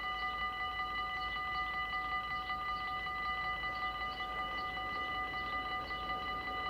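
Dutch level-crossing warning bell ringing continuously with rapid, even strokes and a steady ringing tone.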